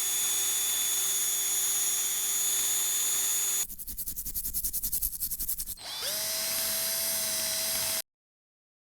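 A small electric power tool running at a steady speed with a whine. After about three and a half seconds it breaks into rapid pulsing for about two seconds, then runs steadily again at a higher pitch and stops abruptly near the end.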